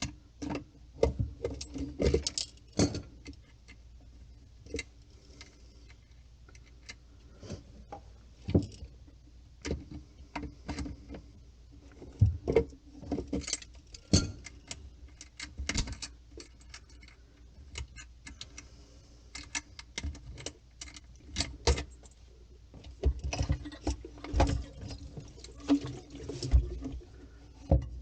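Irregular clicks, taps and clatter of tools and parts being handled, over a faint steady hum.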